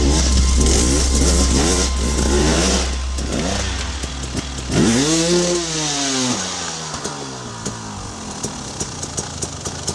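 KTM dirt bike engine revved hard and repeatedly, its pitch rising and falling over about a second at a time, with one big rev about five seconds in. It then drops back to low running, with sharp ticks at an even pace near the end.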